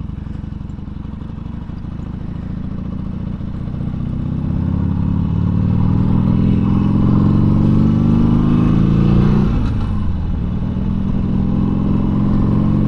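Harley-Davidson Sportster Seventy-Two's 1200 cc V-twin engine running low, then accelerating with a steadily rising pitch for several seconds. About nine and a half seconds in, the pitch drops sharply as the rider shifts up, then it runs steady.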